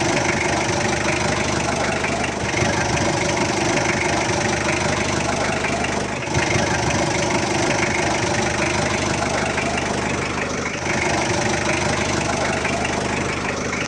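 Mitsubishi Pajero's 4D56 four-cylinder turbo-diesel engine idling steadily.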